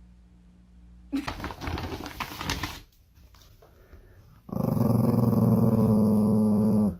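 Dog growling: one long, loud, steady growl starting about four and a half seconds in and cutting off sharply near the end. It follows a couple of seconds of scuffling noise about a second in.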